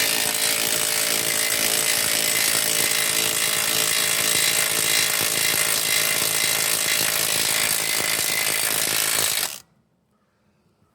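Power tool running hard and steadily at a seized, corroded suspension bolt, then cutting off abruptly about nine and a half seconds in.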